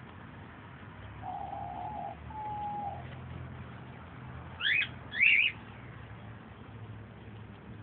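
A young bird gives two sharp, high chirps in quick succession, a little past the middle. These are the loudest sounds; before them come two short, low, steady notes.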